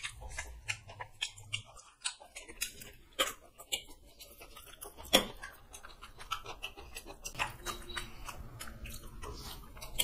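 Close-up mouth sounds of two people eating noodles and fried chicken: irregular wet chewing and smacking clicks, with one sharper click about five seconds in.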